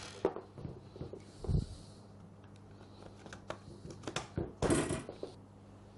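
Clicks, light knocks and a short scrape of plastic housing parts being handled and fitted as the carbon-brush cover is put back on a Bosch GSH 5 demolition hammer. There is a dull knock about a second and a half in and a quick run of clicks near the end.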